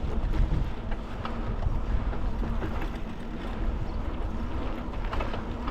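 Steady wind rush on the microphone of a cyclist riding along, a low rumbling noise with a few faint ticks.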